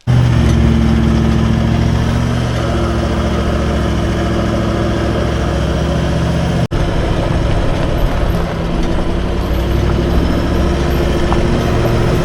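Vehicle engine running steadily with a low, even hum, cut off for a moment about two-thirds of the way through before carrying on.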